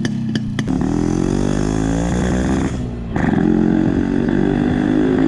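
A motor vehicle's engine pulling away: its pitch climbs for about two seconds, drops out briefly around three seconds in as the gear changes, then runs on louder and fairly steady.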